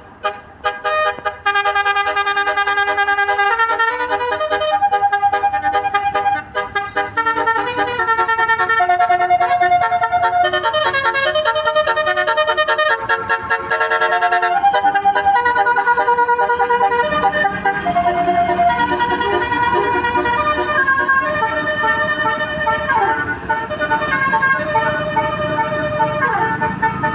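A tour bus's basuri melodic horn playing a tune: loud horn notes held a second or so each, stepping up and down in pitch. In the second half a rougher rumble and hiss sits under the notes.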